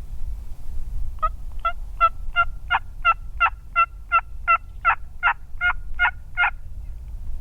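Turkey yelping: a run of about fifteen evenly spaced yelps, roughly three a second, each note breaking between a higher and a lower pitch, over low wind rumble.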